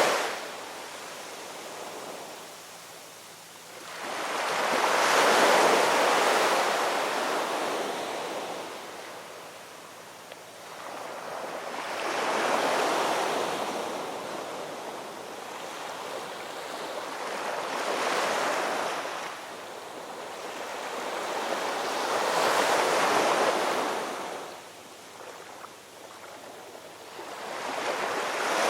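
Ocean waves breaking and washing up the shore, four swells rising and fading about every five or six seconds, with a softer hiss of surf between them.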